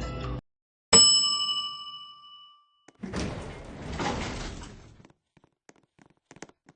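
A single bright metallic ding, struck once, ringing with several high tones that fade out over about a second and a half. It is followed by a couple of seconds of rustling noise and a few faint clicks.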